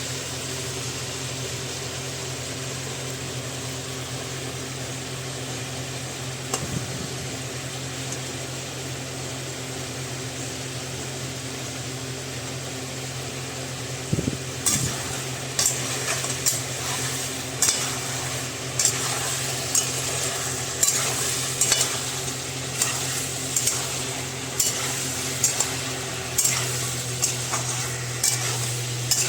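Food frying in a pan with a steady sizzling hiss. About halfway through, a spoon starts scraping and knocking against the pan roughly once a second as the food is stirred.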